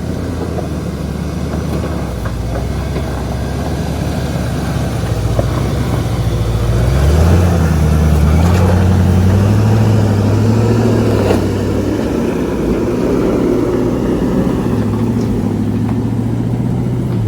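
Old tow truck's engine pulling under load as it crawls up a rocky ledge. Its pitch rises as it is revved about seven seconds in, holds there for a few seconds, then eases back a little.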